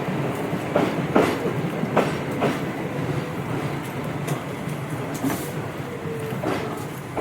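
Tobu 8000 series electric train running, heard from inside the car. Its wheels click over rail joints four times in the first few seconds. The running noise then slowly fades as the train slows, and a faint thin tone comes in about halfway.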